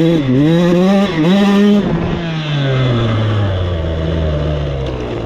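Two-stroke dirt bike engine revving up twice under throttle, then the revs falling steadily as the throttle is eased off.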